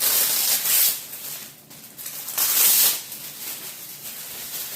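Rustling and crinkling as a rubber sheet is unwrapped and handled, with two loud bursts: one at the start and another about two and a half seconds in.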